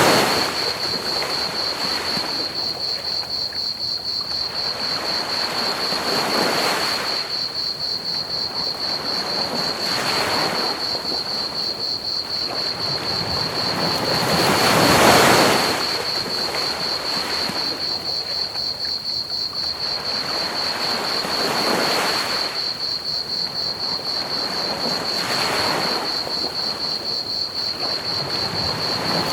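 Ocean waves breaking and washing up the beach, swelling and fading every few seconds, the biggest near the start and in the middle. A steady, high cricket trill and an even bed of pink noise run underneath.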